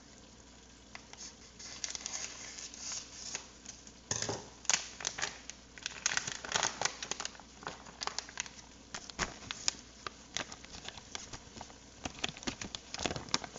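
Plastic bag of cheese crinkling and crackling as it is handled, in irregular bursts that are busiest from about four seconds in and again near the end.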